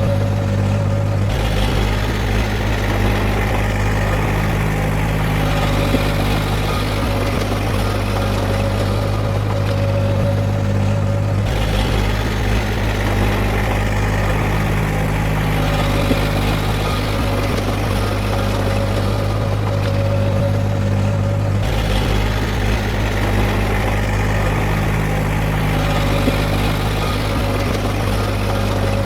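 Heavy diesel engine of earthmoving machinery running steadily, a deep drone whose tone shifts slightly about every ten seconds.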